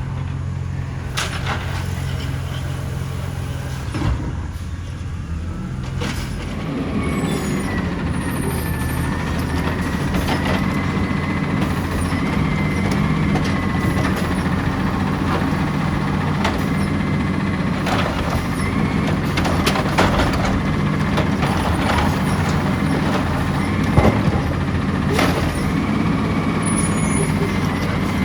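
Side-loader garbage truck's diesel engine running, picking up about six seconds in, joined by a steady high whine and scattered clanks and knocks.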